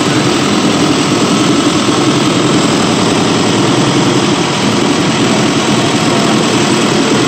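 Hyundai EF Sonata DOHC gasoline engine on a training stand, idling steadily with no change in speed.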